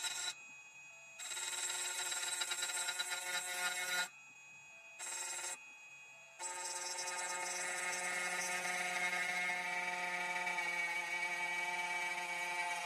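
2M2 Tank 2 Pro CNC key cutting machine cutting a dimple key blank, its motor whining in spells: briefly at first, then for about three seconds, a short burst, and a long steady run of about seven seconds.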